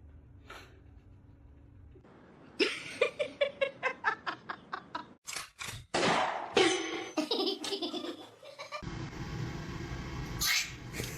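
A person laughing hard in quick, rhythmic bursts, starting a couple of seconds in after a quiet stretch.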